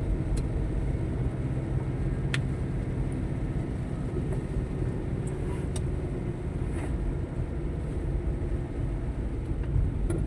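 A motor vehicle's engine running steadily with a low rumble, with a few faint clicks.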